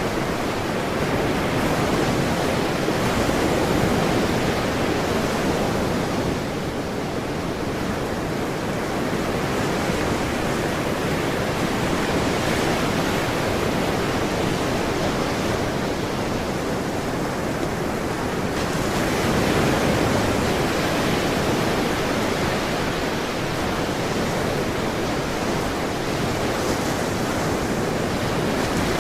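Ocean surf: a continuous wash of breaking waves that swells and eases gently every several seconds.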